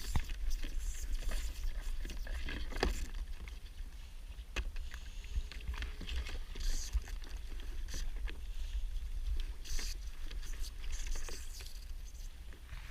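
Water lapping and splashing around a kayak, with scattered small knocks and a steady low rumble of wind on the microphone.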